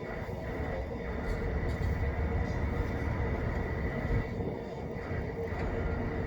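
Freight wagons of a long container train rolling past on the rails: a steady rumble with a faint high whine held through it.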